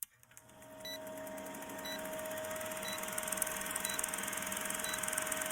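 Heavy rain pattering with a steady hum underneath, and a short high beep about once a second. The sound fades in over the first second.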